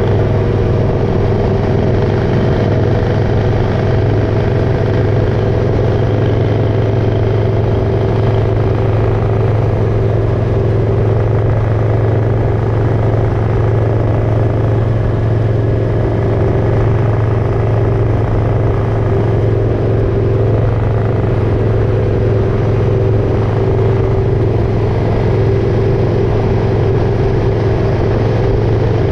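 Motorcycle engine running at a steady cruising speed, its hum holding an even pitch and loudness with no revving or gear changes.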